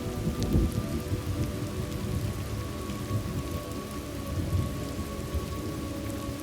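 Steady rain falling, with low rumbles of thunder rolling through; the strongest rumble comes about half a second in.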